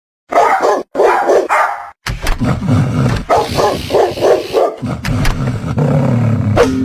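Dog barking repeatedly in harsh bursts, with a quick run of short barks near the middle.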